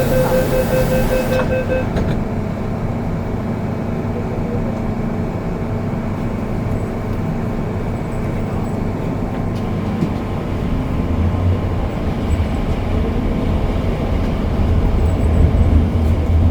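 MTR M-Train door-closing beeps sounding for the first two seconds or so, then the train's running noise, which gets louder and heavier from about ten seconds in as it gets under way.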